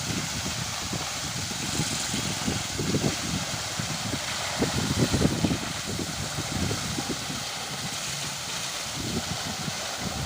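Tractor engine running steadily, with a hiss of noise over it.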